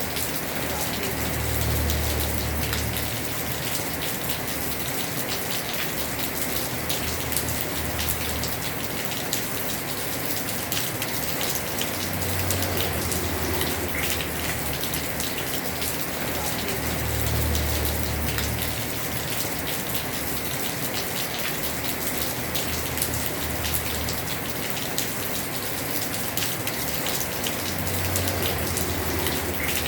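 Heavy rain falling steadily on a house roof, dense drops ticking all through. A low rumble swells and fades four times underneath it.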